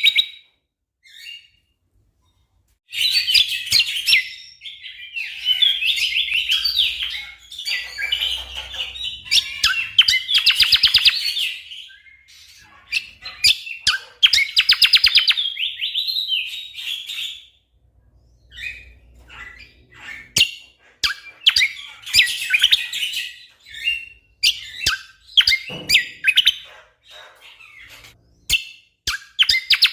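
Greater green leafbird (cucak kombo) singing in bursts of fast, rapid-fire trilled and chattering phrases a few seconds long, with short pauses and scattered sharp clicks between them.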